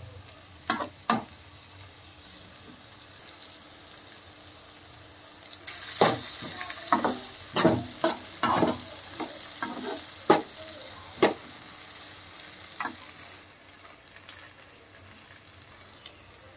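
Sliced onions and green chillies sizzling in hot oil in a frying pan, stirred with a slotted spatula that scrapes and knocks against the pan. There are two knocks about a second in, then a busy stretch of stirring in the middle, where the sizzle grows louder.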